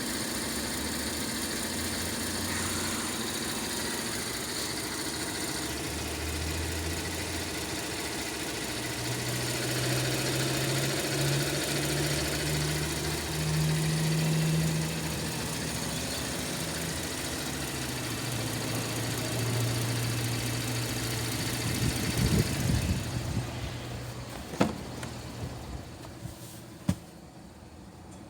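Holden Commodore 3.6-litre V6 running at idle. About a third of the way in, the revs are raised and held in steps for several seconds, then eased back down. About three quarters of the way through the engine is switched off, and two sharp clicks follow.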